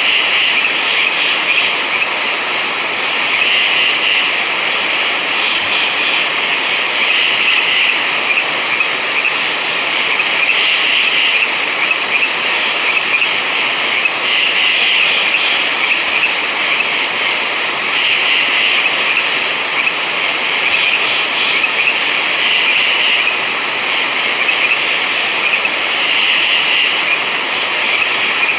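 Dense night chorus of many frogs calling at once, a continuous trill with higher bursts of calls standing out every second or two.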